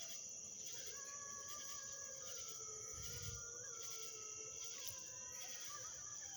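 A pack of distant canids howling: several long, wavering, overlapping howls, over a steady high-pitched drone of night insects.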